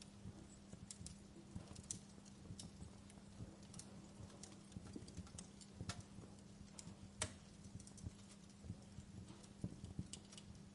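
Wood fire crackling: irregular sharp pops and snaps, a few louder ones in the middle, over a low steady background with a faint constant hum.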